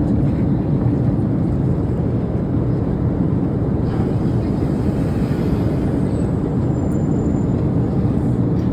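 Steady, loud cabin noise of an airliner in flight, a continuous low rushing drone of engines and airflow.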